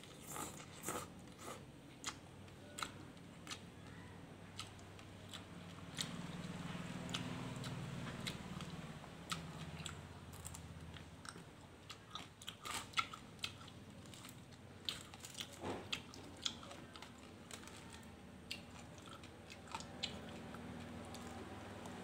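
Close-up chewing and crunching of shredded papaya salad, with short sharp crunches and wet mouth sounds at irregular intervals.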